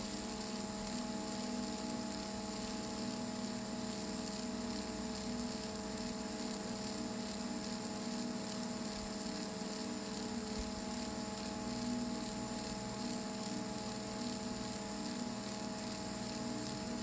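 Small electric motor of a homemade toy tractor running with a steady hum over light hiss.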